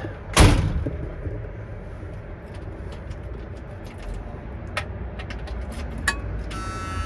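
A thump about half a second in and a few clicks, then near the end the 1978 Ford F-250's seatbelt warning buzzer starts up with a steady buzz.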